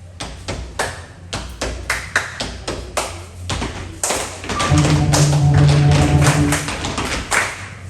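Rhythmic percussive hits from a cheerleading routine, about three a second. Just past the middle, a loud steady low tone sounds over them for about two seconds.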